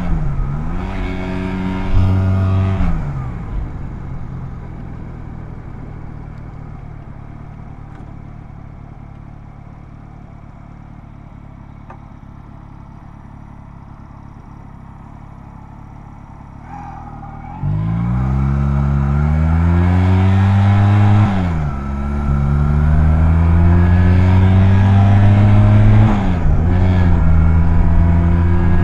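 Honda Rebel 250's parallel-twin engine under way. It slows and falls to a quiet idle for about fourteen seconds, then pulls away, revving up through two gear changes and settling into a steady cruise near the end.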